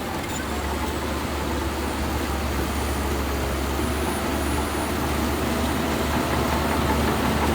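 Heavy earthmoving machinery's diesel engine running steadily, with a constant low hum and a faint steady whine above it.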